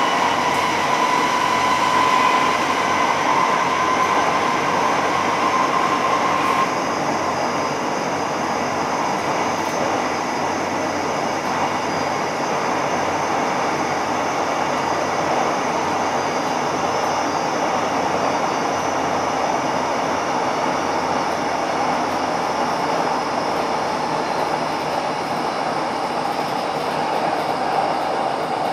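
Running noise of a DB class 472 S-Bahn electric train at speed, heard from inside the carriage: a steady noise of wheels on rails. Over it is a high whine that cuts off suddenly about seven seconds in, after which the running noise is slightly quieter.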